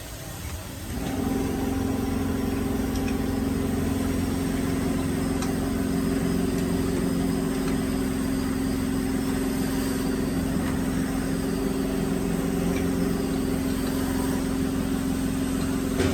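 Multi-spindle woodworking drilling machine's motor starting about a second in, then running with a steady hum.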